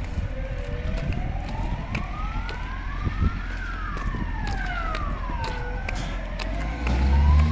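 Emergency vehicle siren in a slow wail, its pitch rising and falling over several seconds, with a second overlapping wail a little out of step. Near the end a vehicle engine accelerates close by and becomes the loudest sound.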